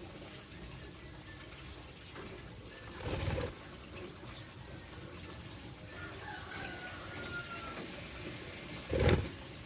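Budgerigars calling faintly over a steady background hiss, with two short loud bumps, one about three seconds in and one near the end.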